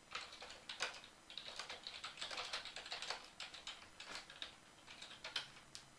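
Typing on a computer keyboard: an irregular run of quick key clicks that stops shortly before the end.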